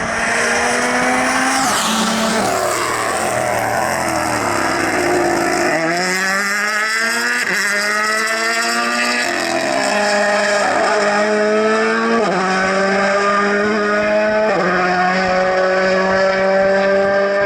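Rally car engine accelerating hard through the gears, its pitch climbing and then dropping sharply at each of about five upshifts. The first few seconds are noisier, with the engine pitch falling.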